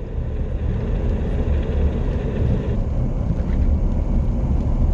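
Steady low rumble of a car running, heard from inside the cab.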